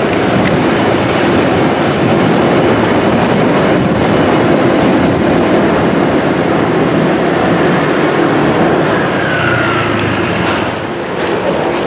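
London Underground track recording train, with 1960 Stock driving motor cars and a 1973 Stock trailer, running past on the rails: a loud, steady rumble of wheels on track. A short falling squeal comes about nine seconds in.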